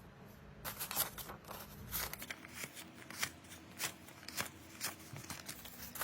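Small hand tools clicking and scraping against a cracked Samsung Galaxy S7 Edge's glass and frame during teardown, in a quick irregular string of sharp ticks starting about a second in.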